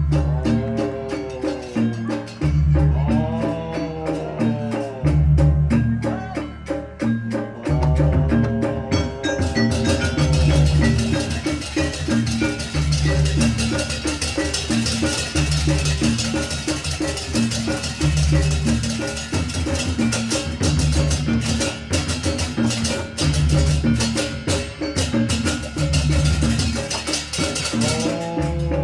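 Barongan dance accompaniment in gamelan style: loud drums in a repeating pattern, tuned struck percussion, and a melody that bends up and down. Bright cymbal-like clattering joins about ten seconds in.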